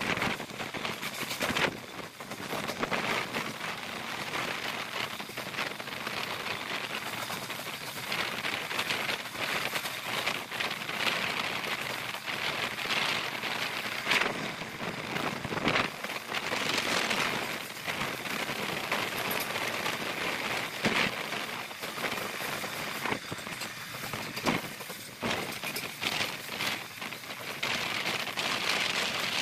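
A passenger train running along the track, heard from an open coach doorway: a steady rushing of wheels on rail and air, with a few sharp clacks at irregular intervals.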